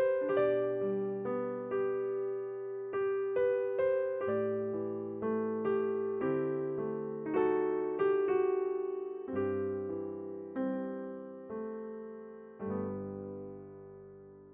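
Kurzweil PC4 digital keyboard playing a slow, hymn-like melody over sustained chords, with notes struck about every half second to a second. It ends on a final chord about 12.7 seconds in that rings on and fades away.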